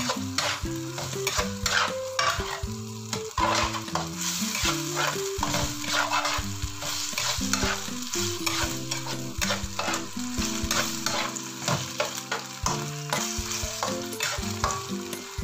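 Food sizzling in a hot pan while a spatula stirs it, with frequent scraping and knocking strokes against the pan. A simple background melody plays underneath.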